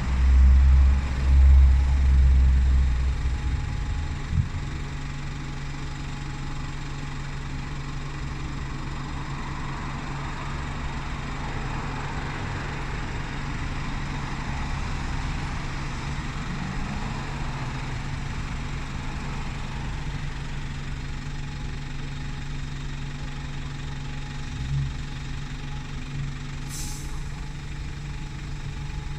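Diesel bus engine idling steadily on its stand, with a deep rumble that is loudest in the first few seconds and a short high hiss near the end.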